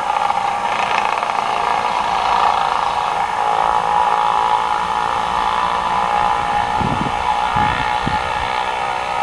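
A motorised hand tool running steadily at an even pitch while stripping bark from a log, with a few short low rumbles about seven and eight seconds in.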